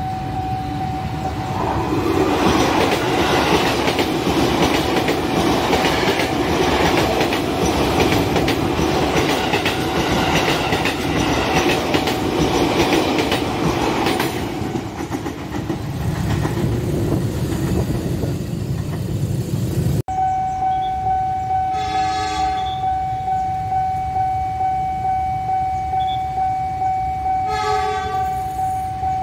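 A KRL electric commuter train passes the level crossing at speed, its wheels clacking in a steady rhythm over the rail joints. It fades out after about twelve seconds. The crossing's warning alarm sounds one steady, pulsing tone throughout, and later an approaching locomotive-hauled train sounds its horn twice in short blasts.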